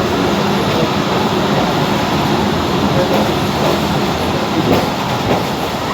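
Moving passenger train heard from inside the carriage: a steady rumble and rattle of wheels on rails, with a few short knocks near the end.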